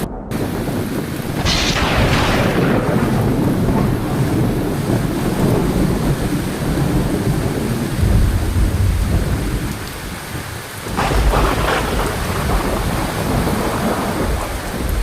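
Heavy rain falling steadily under a thunderstorm, with low rolling thunder throughout. A sharp thunderclap about a second and a half in trails off slowly into rumbling, a deep boom swells near the middle, and a second clap comes a few seconds before the end. The sound cuts out for a split second at the very start.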